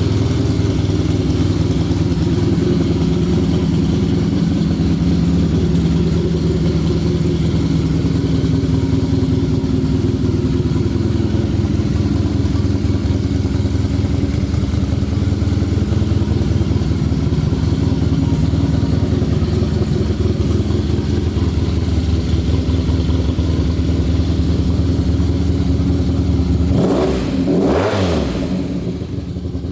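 Honda VF1000's V4 engine idling steadily, with one quick rev up and back down near the end.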